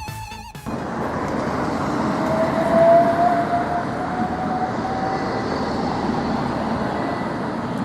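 Train moving along the line, a steady rumble of wheels on rail with a faint whine running over it.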